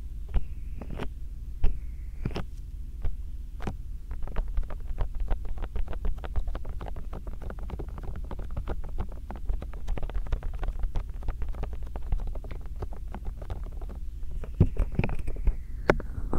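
Bare hands massaging and rubbing against a binaural microphone, a steady low rumble under many small taps and scrapes. From about four seconds in they quicken into a dense run of rapid pats for roughly ten seconds.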